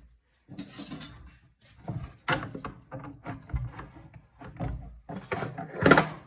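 Computer parts being handled and knocked against a wooden box: a scrape about half a second in, then a series of knocks and clatters, the loudest near the end.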